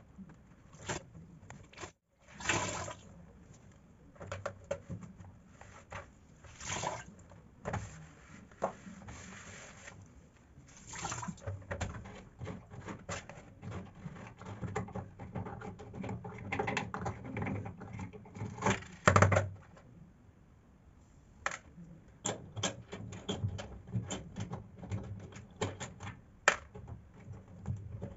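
Washing machine drain filter being worked by hand: scattered plastic clicks and knocks, with a stretch of water running out in the middle and a louder knock near two-thirds of the way in.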